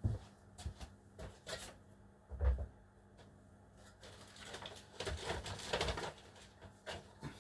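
Handling noises from a plastic model shop-front building and its packaging being turned over: scattered light clicks and knocks, a dull thump about two and a half seconds in, and a rustle from about four and a half to six seconds.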